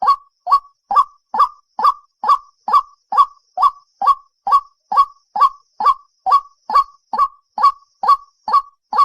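White-breasted waterhen call: a short nasal note centred near 1 kHz, repeated evenly a little over twice a second, as a looped lure-call recording.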